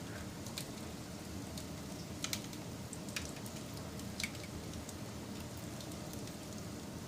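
Wood fire burning with a steady low rush, broken by a handful of sharp crackles and pops, a quick pair of them a little over two seconds in.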